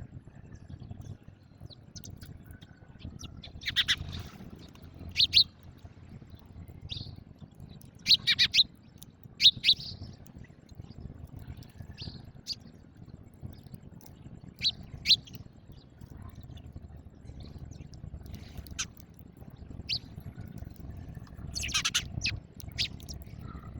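House sparrows chirping: short, sharp single chirps and quick pairs, scattered irregularly, over a steady low rumble.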